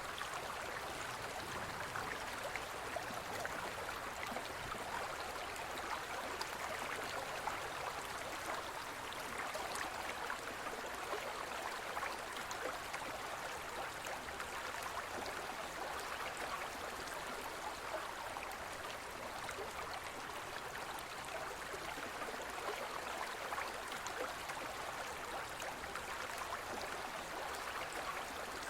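Gentle forest stream flowing steadily: an even rush of water with many small splashes running through it.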